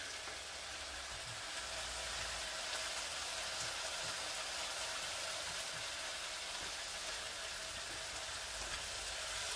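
A chili, garlic, onion and tomato sauté sizzling steadily in oil in a wok.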